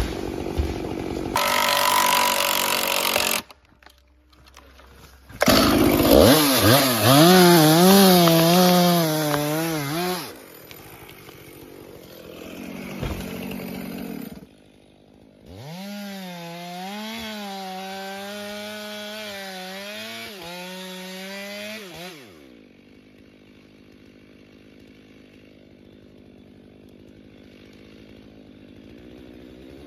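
Chainsaws cutting into tree trunks in several separate spells, the engine pitch wavering up and down as the chain bites. The last several seconds are much quieter.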